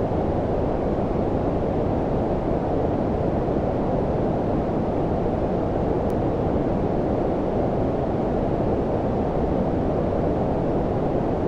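Steady low-frequency sleep noise, a brown-noise-like deep hiss. It is dull, with little treble, and even and unchanging throughout.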